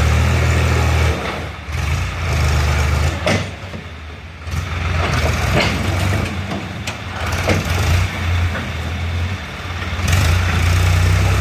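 Tractor diesel engine running, heavy at first, easing off for a few seconds, then building up again near the end, with a few short knocks.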